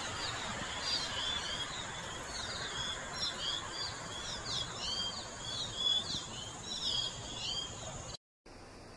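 Birds chirping: a quick run of short, repeated chirps over a steady outdoor hiss, cut off suddenly about eight seconds in.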